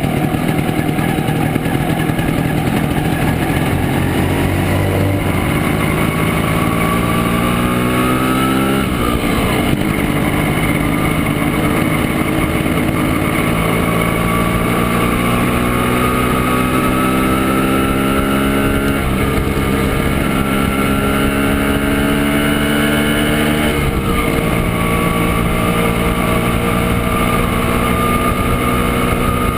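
Montesa Impala Comando 175's two-stroke single-cylinder engine under way, heard from on board: its pitch climbs steadily as it accelerates, drops sharply at upshifts about nine and twenty-four seconds in, then climbs again.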